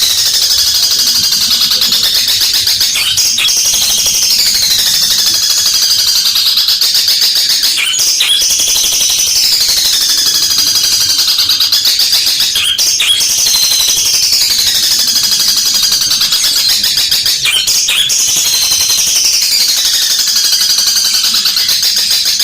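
Long-tailed shrike (cendet) singing loudly without a break: a rapid, harsh, rattling chatter with a sweeping fall in pitch every few seconds. The song mimics fighting tree sparrows. A few sharp clicks cut through it.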